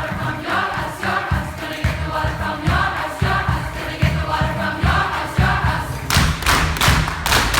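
Choir singing over a steady low beat of about two thumps a second. Near the end come several loud, sharp hits, and then the music cuts off suddenly.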